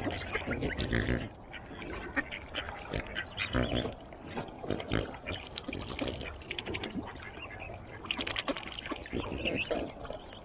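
Ducks quacking, many short overlapping calls coming irregularly throughout.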